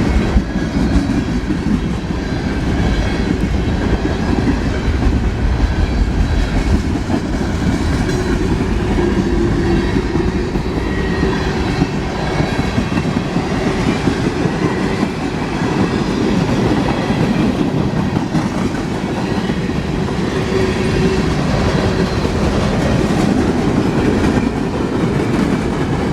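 Freight train passing close by: a loud, steady rumble of rolling cars with wheels clacking over the rail joints.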